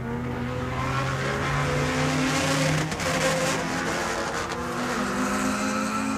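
Dubbed-in car engine sound effect: several race-car engines running at speed at once, over a rushing noise, their pitch stepping up about five seconds in.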